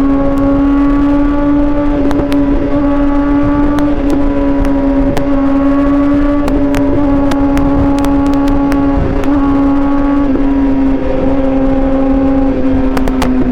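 Suzuki GSX-R750 sportbike's inline-four engine running at a steady high cruising rpm, its pitch barely changing, over rushing wind noise with scattered sharp clicks and buffets on the microphone.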